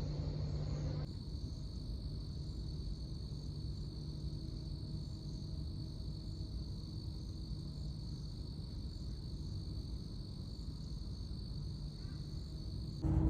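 Steady high-pitched chirring of insects, such as crickets, over a low rumble.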